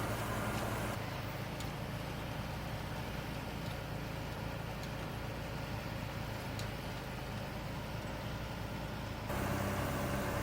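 Tractor engine running steadily while pulling a New Holland round baler that is working, a continuous machinery drone. The sound changes abruptly about a second in and again near the end.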